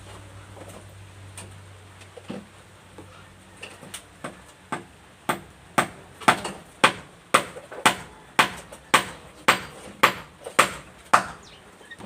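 Hammer striking: a few light, irregular taps, then a steady run of about a dozen hard blows at roughly two a second.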